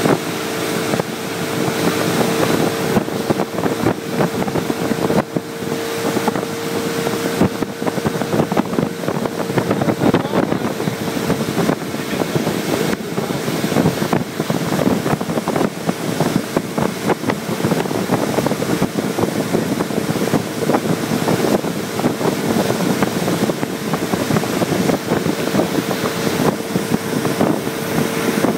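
Motorboat engine running steadily at speed while towing, with wind buffeting the microphone.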